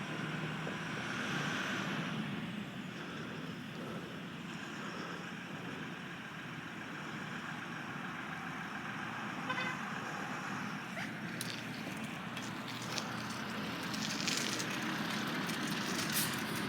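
Steady running vehicle noise, with a faint whine rising and falling in the first few seconds and a few short clicks and knocks around the middle.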